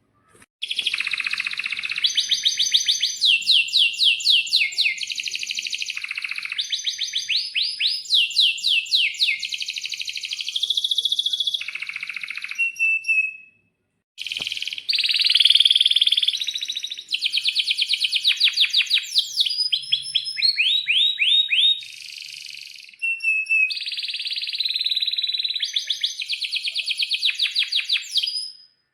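Domestic canary singing a long, fast song of trills and rapidly repeated chirps, delivered in two long phrases with a short break about halfway through.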